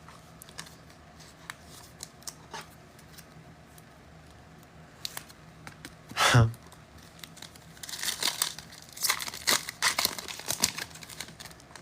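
Foil trading-card pack wrappers being torn open and crinkled by hand, with scattered light clicks of cards being handled. A brief, louder falling sweep comes about six seconds in, and the crinkling is densest in the last few seconds.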